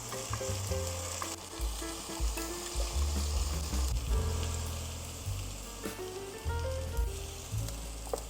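Food sizzling as it fries in a pan, the hiss strongest in the first second or so, with background music playing.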